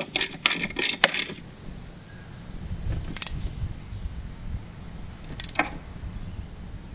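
Socket ratchet clicking as a 12 mm mounting bolt is tightened through the mower deck into the engine block: a quick run of clicks for about the first second, then two short bursts of clicking a few seconds apart.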